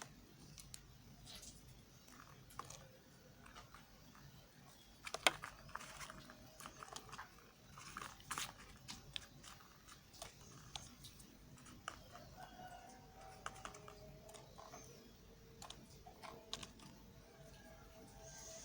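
Knife cutting through soft soap: irregular crisp clicks and crackles, the sharpest about five seconds in.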